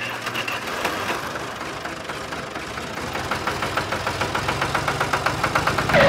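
Tractor engine running at a steady speed with a regular knock, about six or seven beats a second, which grows clearer in the second half.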